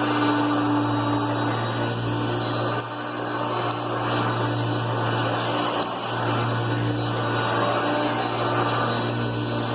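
Hoover Concept One upright vacuum cleaner running steadily: a motor hum over the rush of suction air, dipping slightly about three and six seconds in.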